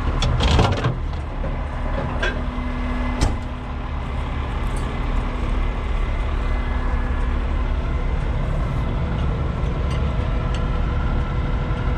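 Heavy truck engine running steadily. There are a few sharp metallic knocks in the first second, and a steady hum stops with another knock about three seconds in.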